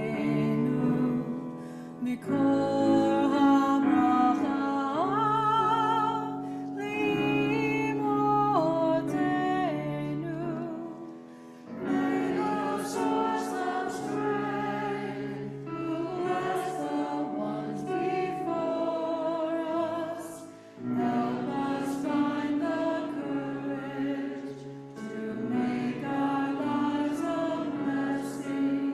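Choir singing, voices holding long notes with vibrato over sustained lower parts, with a brief drop in loudness about a third of the way through and again about two-thirds through.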